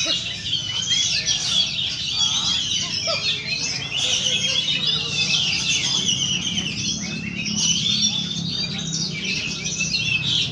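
A songbird singing in a continuous, rapid, high-pitched twittering run. A steady low hum sits underneath.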